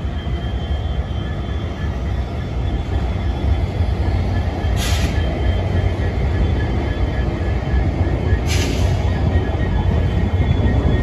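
Indian Railways express train pulling out of a station, heard from an open coach doorway: a steady low rumble of coaches on the rails, growing slightly louder as the train gathers speed. Two short hisses come about five and eight and a half seconds in.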